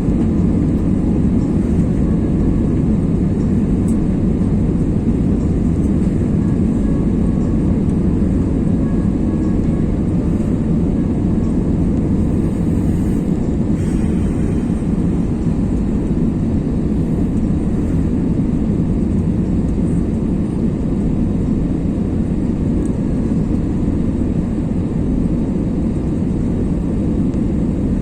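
Airbus A320 cabin noise: a steady low roar of the engines and rushing air, unchanging throughout.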